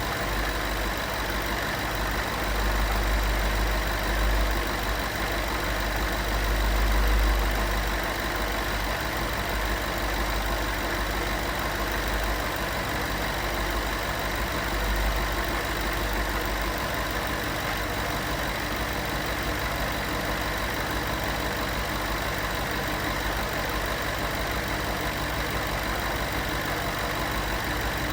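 Porsche 911 flat-six engine idling steadily after a cold start, with a strong low rumble that eases slightly about eight seconds in.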